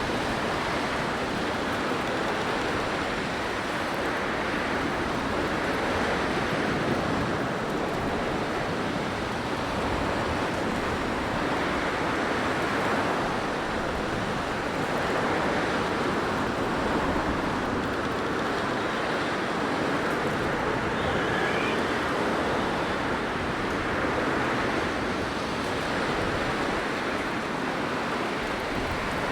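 Blizzard wind blowing as a steady rush of noise that swells and eases every few seconds.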